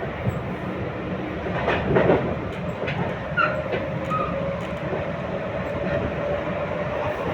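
RER B commuter train running, heard from inside the carriage: a steady rumble of wheels on the track with a few knocks about two seconds in, and a steady whine through the second half.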